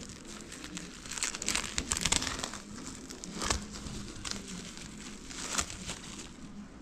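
Plastic wrapping crinkling and rustling as it is handled, densest about one to two seconds in, with a few sharper crackles later.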